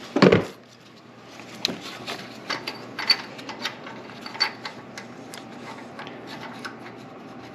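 A loud thump just after the start, then scattered clicks and metallic ticks from a ratchet and 22mm spark plug socket being worked on a spark plug, breaking it loose without a breaker bar.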